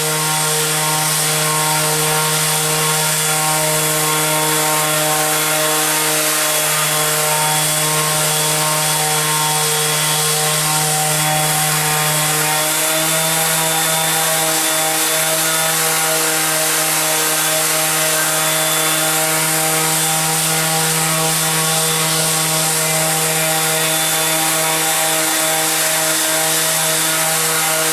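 Bosch orbital sander running steadily while sanding hard walnut: a pretty quiet, even motor hum over the hiss of the abrasive on the wood. Its pitch shifts slightly about halfway through.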